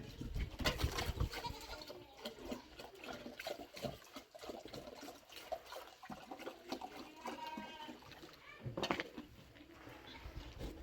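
Livestock bleating, one drawn-out call near the middle, among scattered light clicks and knocks.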